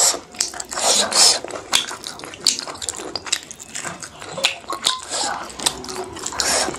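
Close-miked wet mouth sounds of someone eating pork and rice by hand: chewing, sucking on the meat and lip-smacking, with many sharp, irregular sticky clicks.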